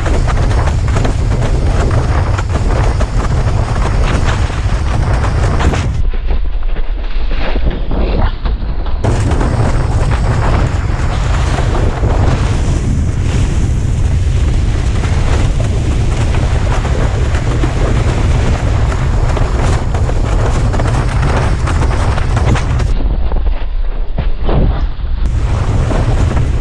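Loud, steady wind buffeting a head-mounted action camera's microphone while windsurfing. The treble drops away twice, for a couple of seconds each time.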